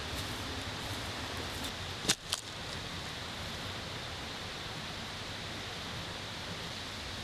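Mountain stream rushing steadily, with two sharp knocks a quarter of a second apart about two seconds in.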